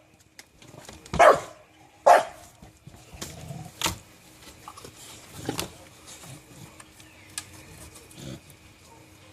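Dogs barking in play: two loud barks about a second apart near the start, then fainter scattered barks.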